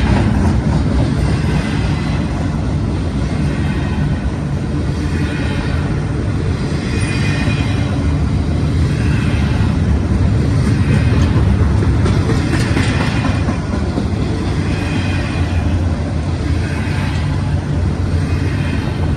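Freight train rolling past: a steady low rumble, with wheel-on-rail noise from the cars coming round again every couple of seconds.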